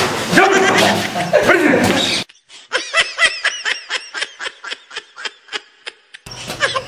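A dubbed-in laughing sound effect: a quick run of snickering 'ha-ha' pulses, about five a second, for some four seconds, set against dead silence. Before it come brief indistinct voices.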